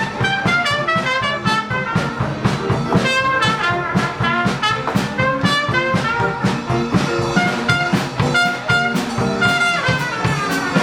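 Live traditional jazz band playing an up-tempo tune, brass horns carrying quick melodic lines over a steady beat.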